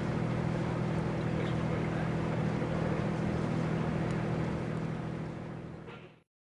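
Boat engine running steadily with a low, even hum, fading away in the last second before it cuts off.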